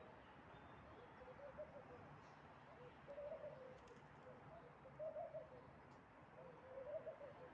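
Faint, low bird calls, wavering in pitch and repeated about every two seconds, with about four calls in all.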